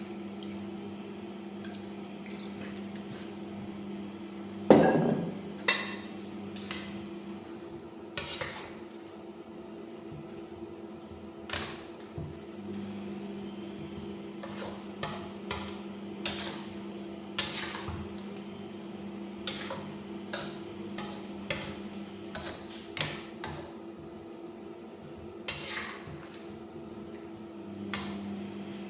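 A cooking utensil knocking and scraping against a pan as pancit noodles are stirred and tossed with soy sauce, in irregular sharp knocks about every second or two, the loudest just under five seconds in. A steady low hum runs underneath.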